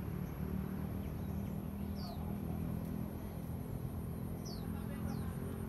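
Ashy tailorbird calling: short, high chirps that fall in pitch, one about two seconds in and two more near the end, over a steady low rumble.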